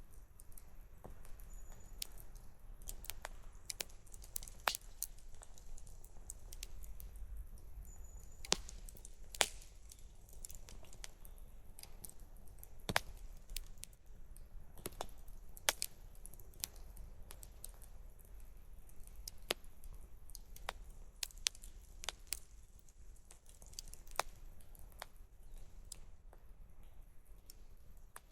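Wood campfire crackling, with sharp pops at irregular intervals, a few every second or so, over a low steady rumble.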